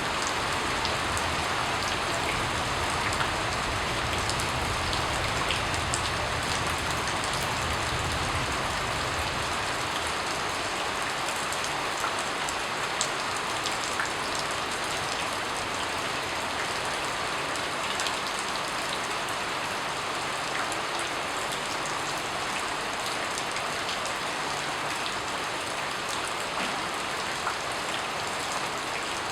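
Steady rain falling on a surface, with individual drops ticking through the hiss. A low rumble sits underneath during the first third and fades out about nine seconds in.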